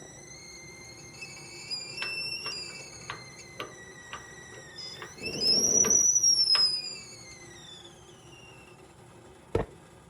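A high whistling tone with overtones, held for several seconds and gliding slowly up and then down in pitch. A louder rushing noise comes in the middle, and a sharp click comes near the end.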